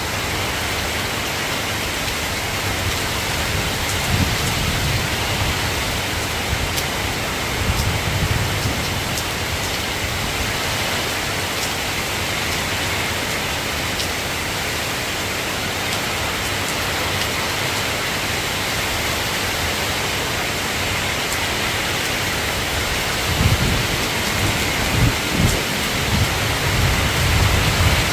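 Steady rain hiss with low rumbles of distant thunder, twice in the first third and several times near the end.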